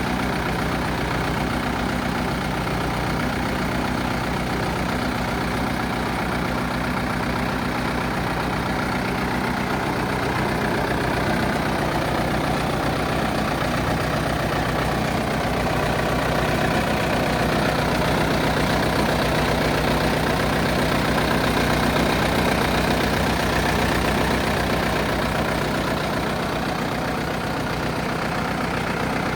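Rima four-wheel-drive tractor's diesel engine running steadily at idle, growing a little louder through the middle before settling back.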